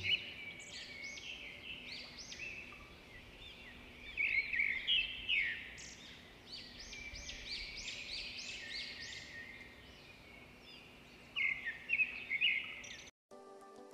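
Wild birds singing, a busy run of quick high chirps and trills, most dense about four to six seconds in and again near the end. Music cuts in just before the end.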